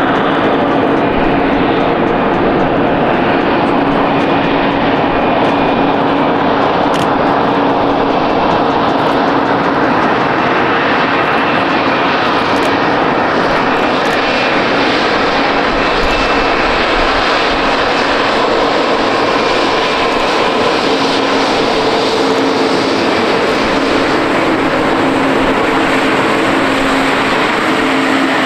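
Jet airliner engines running loud and steady, with a few held whining tones over the noise.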